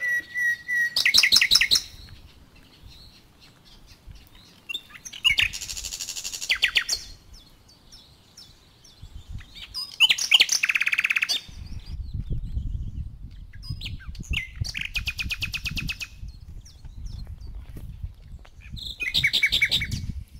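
A songbird singing short, rapid trills of repeated high notes, five phrases about four seconds apart. A low rumble runs underneath from about halfway through.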